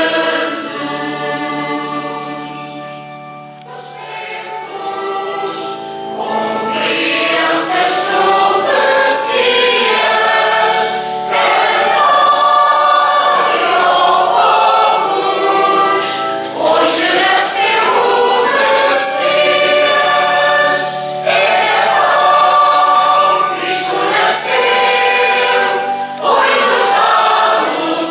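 Church choir singing a Christmas hymn in long phrases over a steady held low note, with a brief lull about three to four seconds in.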